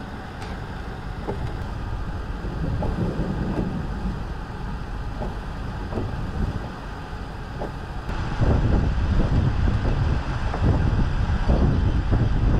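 Strong storm wind buffeting the microphone in a low, gusting rumble that grows louder about eight seconds in.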